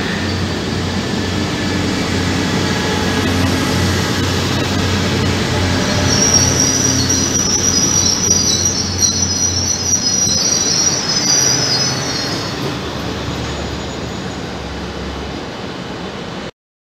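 Regional passenger trains moving through a station: a steady low rumble of one train pulling out while another rolls in, with a high wheel squeal from about six to twelve seconds in. The sound cuts off abruptly near the end.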